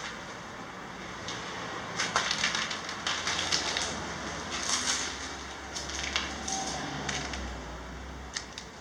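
Irregular crunching and crackling: a run of sharp crunches from about two seconds in until about seven seconds, and a couple more near the end, over a steady low rumble.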